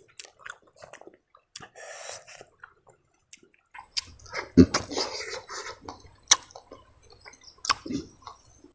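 Close-up mukbang eating sounds: wet chewing and lip-smacking with short clicks as a mouthful of rice and curry is eaten by hand. The loudest stretch comes about four seconds in, with another burst near the end.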